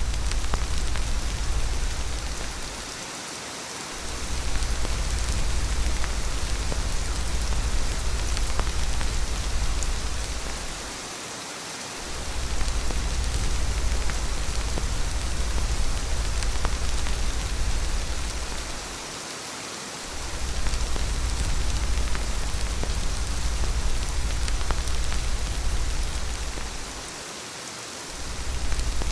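Steady heavy rain with a deep low rumble beneath it; the rumble drops out for about a second roughly every eight seconds, four times in all, so that the sound dips noticeably each time.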